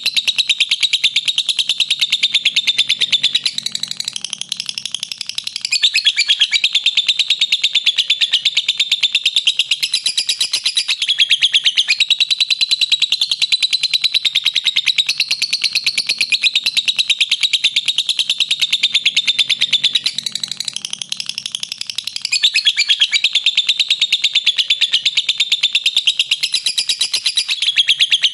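Lovebird giving a long, unbroken 'ngekek' chatter: a very fast run of shrill, high notes. It eases off briefly twice.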